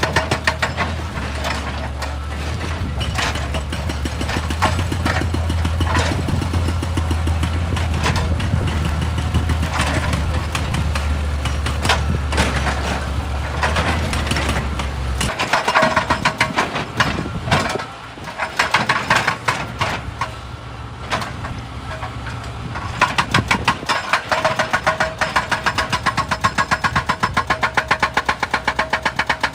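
Excavator's diesel engine running with rapid repeated knocking and clatter. A deep low hum cuts off suddenly about halfway through, and near the end the knocks come fast and even.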